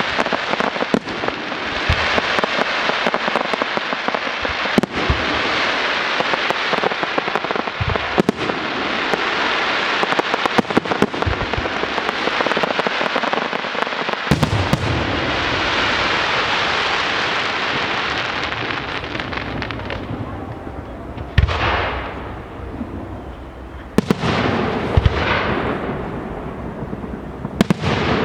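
Fireworks display: aerial shells bursting in quick succession, sharp bangs over a dense, continuous crackle. After about twenty seconds the crackle thins and separate bursts follow, each trailing off in crackling.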